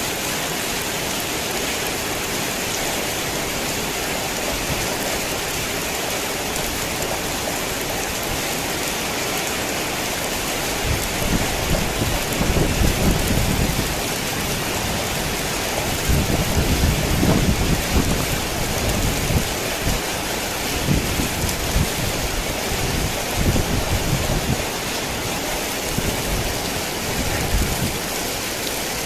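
Heavy rain falling steadily, with low rumbles of thunder swelling up several times from about a third of the way in.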